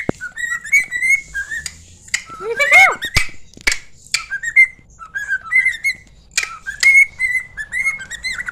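Cockatiel whistling a learned tune: a run of short, warbling whistled notes, with a loud rising swoop about two and a half seconds in. A few sharp clicks are heard between the phrases.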